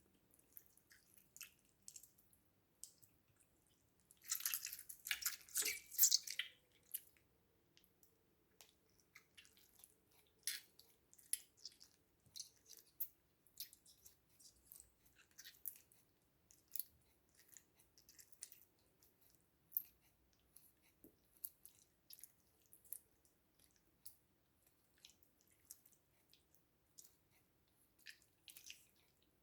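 Slime being squished and worked by hand: a steady scatter of small wet clicks and pops, with a louder stretch of dense squishing and crackling about four to six seconds in.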